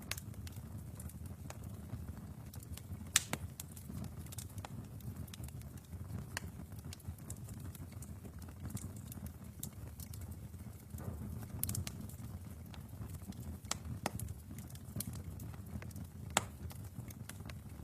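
Wood fire burning in a fireplace: a steady low rumble of flames with scattered sharp crackles and pops, the loudest pop about three seconds in.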